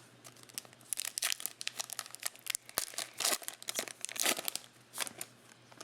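A plastic trading-card pack wrapper crinkling and tearing as it is opened and handled, in a run of irregular rustles and crackles that stops a little after five seconds in.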